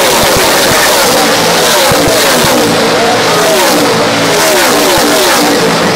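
A field of NASCAR Camping World Truck Series race trucks running at speed, their V8 engines at high revs, with many overlapping engine notes falling in pitch as trucks go past.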